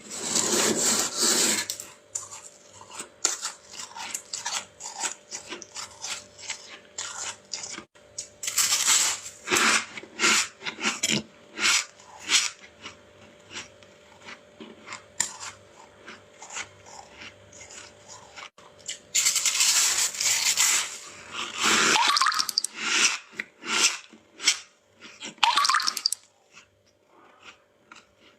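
Thick flaky frost scraped off a freezer's inner wall in three long rasping spells, with many short crisp crunches of frost being bitten and chewed in between.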